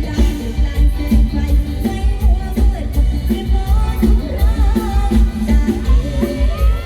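Live Thai band music with a heavy, steady bass beat and a sung vocal line over it.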